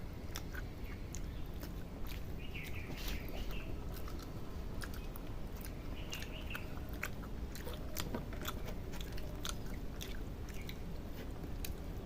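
People chewing a meal of rice and egg curry: scattered wet smacks and clicks of eating, over a steady low hum.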